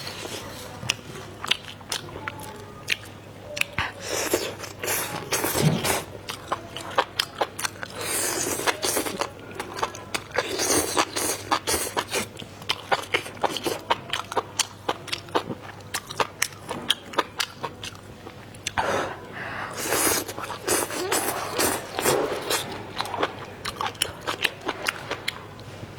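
Close-up eating sounds: chewing and biting with many sharp, crunchy clicks and wet mouth noises coming in stretches of a second or two.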